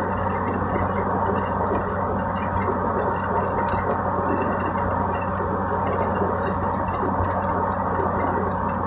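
Steady engine and road drone inside a moving car's cabin, with faint scattered ticks over it.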